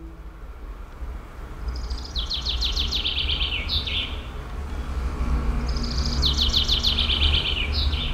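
A songbird singing two phrases about four seconds apart, each a fast, high trill that drops in pitch and ends on a separate note, over a steady low rumble.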